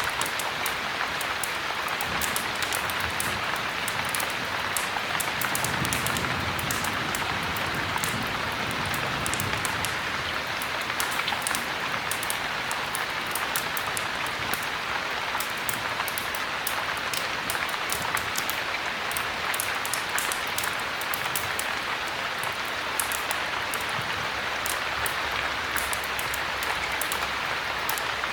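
Steady heavy rain, an even hiss with many small sharp ticks of drops landing.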